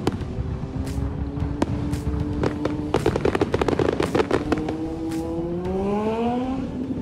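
Fireworks bursting overhead: scattered sharp bangs, with a dense run of crackling about three to four and a half seconds in. Underneath, a road vehicle's engine hums, its pitch rising steadily over the last two seconds as it accelerates.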